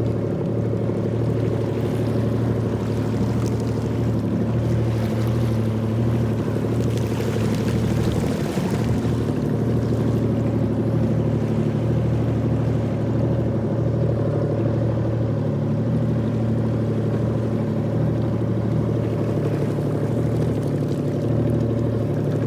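Jet ski engine running steadily at an unchanging speed, an even hum, with a louder hiss rising over it for a few seconds about a third of the way in.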